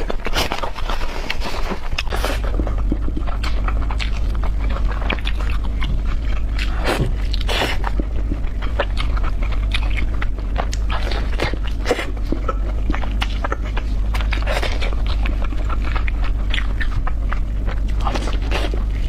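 People chewing and biting into spicy pork chops, close to the microphone: a dense run of short crunches and wet clicks, with no speech.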